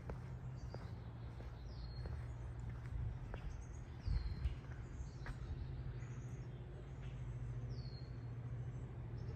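Small birds giving short, high chirps that fall in pitch, a few seconds apart, over a steady low hum and scattered faint clicks.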